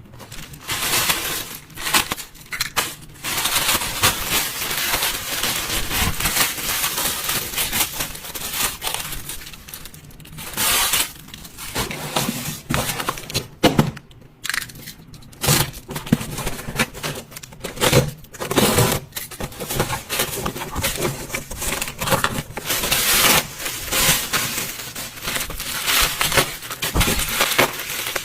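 Irregular crinkling, crackling and knocking of things being handled, with no steady tone.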